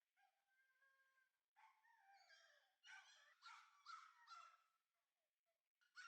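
Shiba inu puppy whining, faintly, in a run of high cries that slide up and down in pitch. The cries are loudest between about three and four and a half seconds in.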